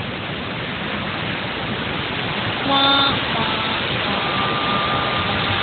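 Heavy rain pouring down in a steady loud hiss. A brief pitched tone sounds about three seconds in.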